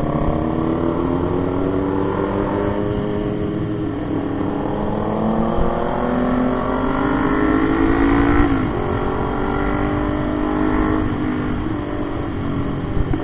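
Motorcycle engine under way, its note rising steadily as it accelerates, then dropping sharply about eight and a half seconds in before climbing again.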